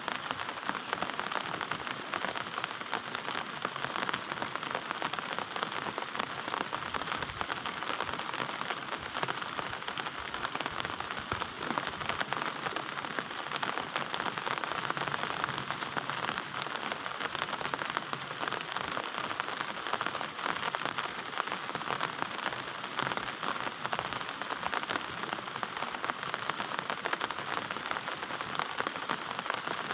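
Heavy rain falling steadily, a dense, even patter of countless drops hitting a surface.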